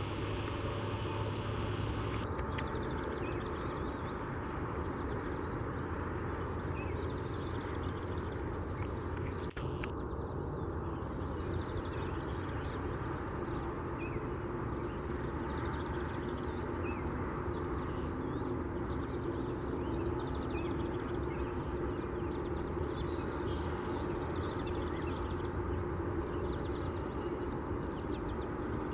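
Several small birds chirping and singing in short, scattered phrases over a steady low rumble.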